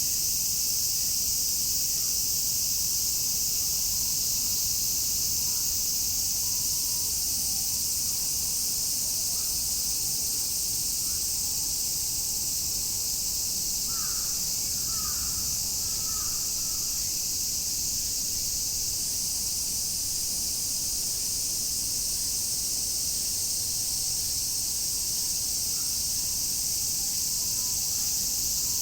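A chorus of cicadas shrilling steadily in a dense high-pitched wash. About halfway through, a bird calls three times briefly.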